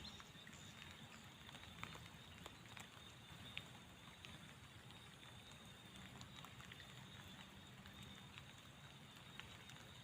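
Faint patter of light drizzle, with scattered single drops ticking now and then.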